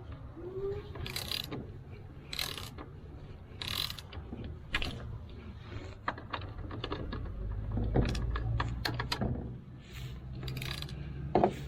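Socket wrench ratchet clicking in short strokes, then in a quicker run of clicks, as the oil drain plug is turned loose. A low steady hum runs underneath.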